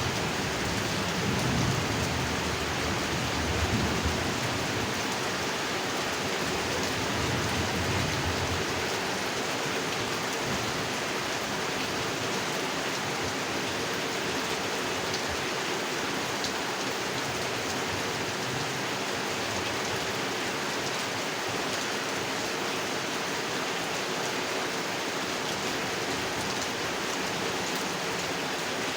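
Steady heavy rain falling on a pond, an even hiss throughout. A low rumble of thunder runs under it for the first several seconds and fades out.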